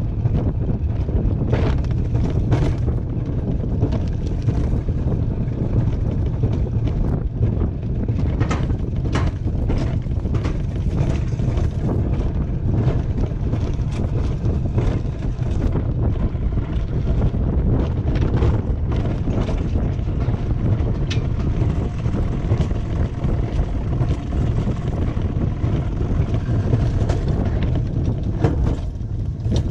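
Wiegand alpine coaster sled running on its tubular steel track: a steady low rumble with wind buffeting the microphone and scattered sharp clicks.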